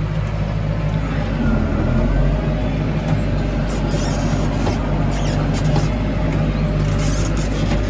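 Tractor engine running steadily while driving across a paddock, briefly dropping in pitch about two seconds in, with occasional light clicks and rattles over it.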